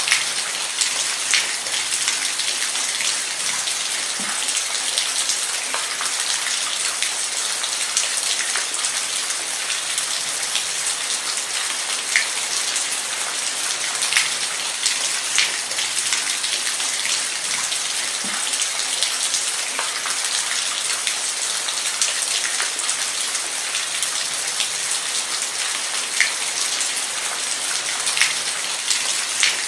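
Steady rain falling, with a dense high hiss and the occasional louder single drop striking a surface.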